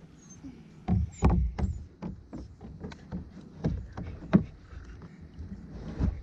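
Irregular knocks and thumps on a kayak hull, about a dozen in six seconds, the loudest about a second in and again around four seconds in.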